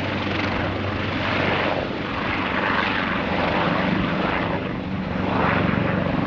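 Firefighting helicopter spun up and lifting off: a steady low engine and rotor hum under a loud rushing noise that swells and fades every second or two.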